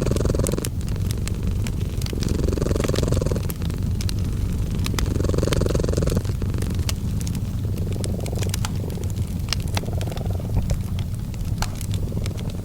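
A cat purring steadily, the purr swelling and fading about every two and a half seconds with its breaths, mixed with the irregular pops and snaps of a crackling wood fire.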